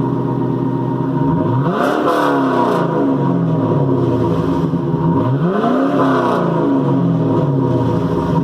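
2001 Camaro SS's LS1 V8 idling through SLP headers and a Texas Speed muffler with exhaust cutouts, revved twice: the pitch climbs and falls back about a second and a half in, and again about five seconds in.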